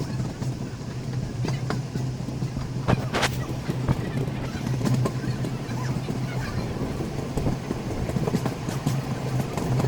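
Passenger train running, heard from on board: a steady low hum with irregular clicks and knocks from the running gear.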